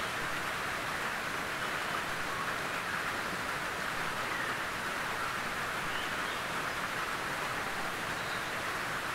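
Gentle rain falling steadily on a tin roof: an even patter with no thunder, with a few individual drops standing out faintly.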